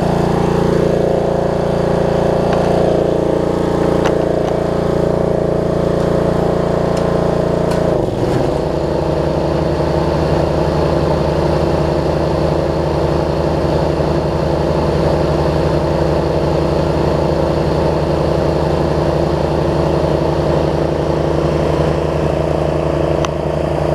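Snapper rear-engine riding mower's engine running steadily at speed. About eight seconds in the pitch dips briefly and the sound changes, as a load such as the blades or the drive comes on.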